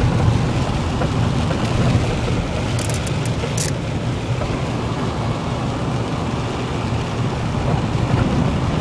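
Steady road and engine noise heard from inside a moving car, a low rumble under an even hiss, with a few short clicks about three seconds in.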